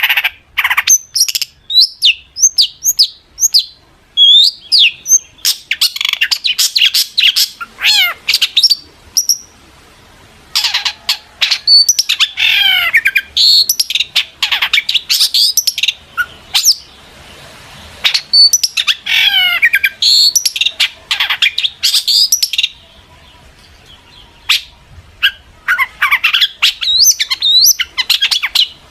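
Long-tailed shrike (cendet) singing a fast, varied song of sharp chirps, whistled notes and chattering warbles, in long bursts broken by a couple of short pauses.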